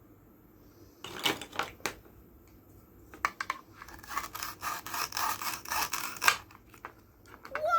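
Toy fruit being cut with a plastic toy knife: short scraping rasps with a few sharp clicks, and a longer rasp about four seconds in.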